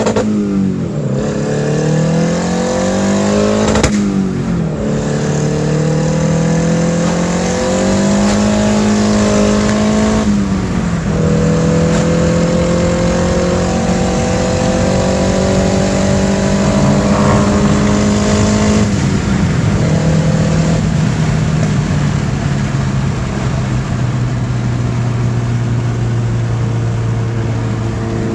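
Honda Integra's four-cylinder engine pulling under load. Its pitch climbs slowly and drops sharply three times, as at gear changes, then settles to a lower steady note near the end.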